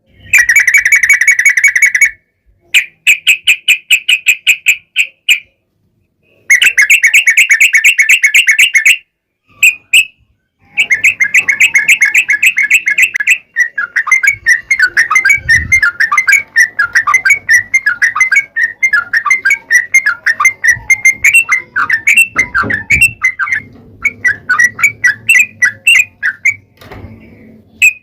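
Yellow-vented bulbul (trucukan) song: fast, rapidly repeated chirping notes, the long rapid run bird keepers call ropel panjang. It comes as several short bursts at first, then one unbroken chattering run from about eleven seconds in.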